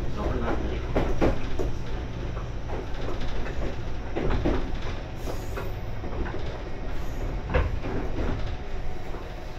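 JR 415 series electric multiple unit running on the line: a steady low rumble of wheels and motors, with scattered sharp knocks and clatters from the track.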